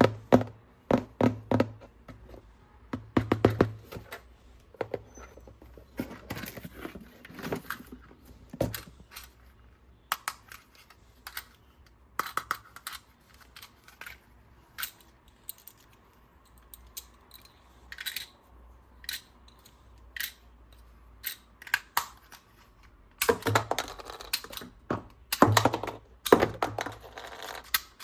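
Plastic toys and their packaging being handled: irregular clicks, taps and rustles, with clusters of heavier thunks in the first few seconds and again near the end.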